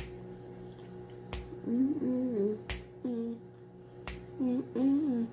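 Finger snaps on a slow, even beat, about one every second and a half, under a wordless vocal melody that slides up and down.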